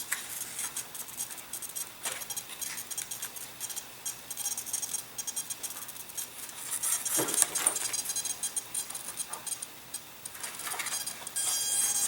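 Small clicks and taps from handling the model's parts at the bench. Near the end, a steady high-pitched electric buzz from the micro servos moving and holding position.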